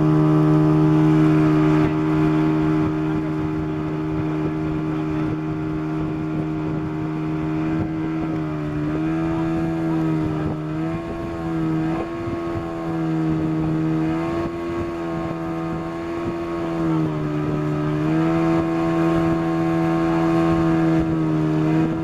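Boat engine running steadily underway, a constant droning note whose pitch dips briefly and recovers a few times in the second half, over a steady rushing hiss.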